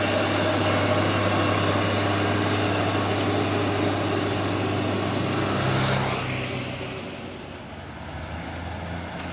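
Heavy diesel truck engine running hard, loud for about six seconds and then fading to a quieter steady drone.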